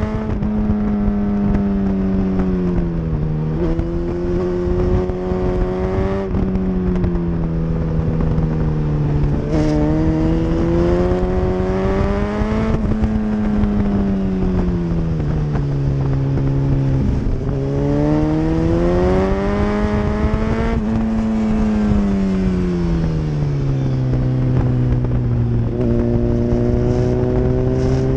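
Sport motorcycle engine at full track speed, its pitch rising under throttle and falling off into corners, with sudden drops and jumps at the gear changes. Heavy wind buffeting on the tail-mounted microphone.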